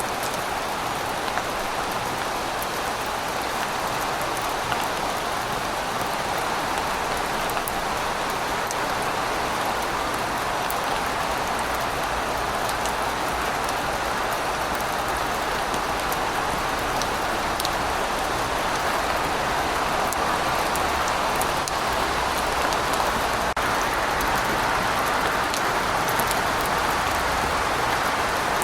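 Steady rain falling, a continuous even hiss with scattered fine drop ticks and a faint low rumble underneath.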